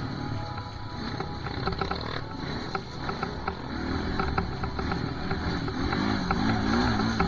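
Chinese dirt bike engine running, its pitch rising and falling quickly as the throttle goes on and off, with some clicking and clattering over it.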